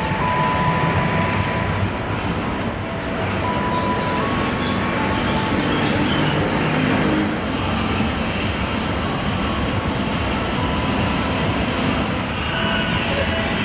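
Diesel-electric locomotives hauling passenger trains through a station: a steady rumble of engine and rolling wheels, with brief faint tones above it.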